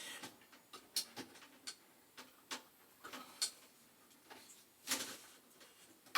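Scattered small clicks and light rustling of wires and push-on connectors being handled and pressed onto the terminals of a boiler's spark-ignition pilot control.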